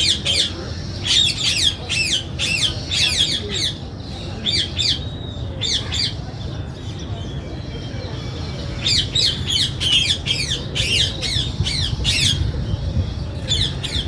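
Birds squawking in rapid chattering bursts of many short, sharp calls, over a steady low hum.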